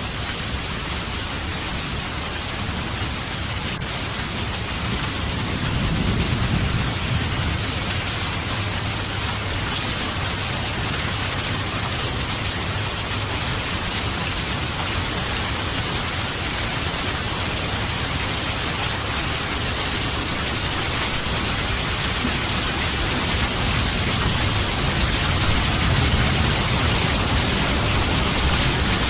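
Steady heavy rain with a constant hiss, and low rumbles of thunder swelling about six seconds in and again near the end.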